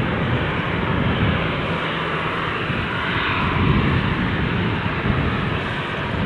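Jet engines of a Boeing 737-800 airliner running, a steady rushing noise with a low rumble beneath it.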